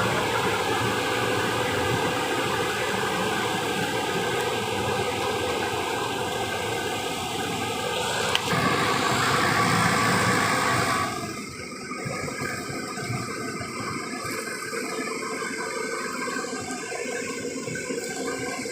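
Engine-driven Turbo T600 pesticide sprayer running steadily with a hiss. About eleven seconds in it drops to a lower, quieter level.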